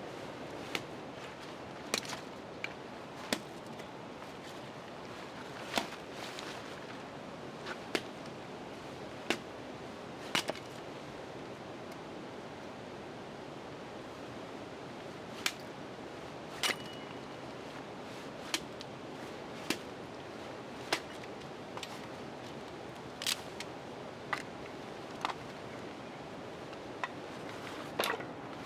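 Steady rain falling on a cabin roof, with sharp single ticks or pops every second or two at irregular intervals.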